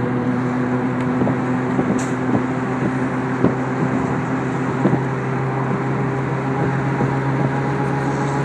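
Steady drone of aircraft engines heard from inside the cabin, a constant noise with several held hum tones and no change in pitch.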